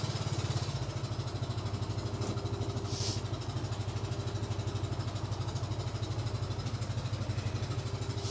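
Side-by-side utility vehicle's engine idling steadily with an even low pulse, with a brief hiss about three seconds in.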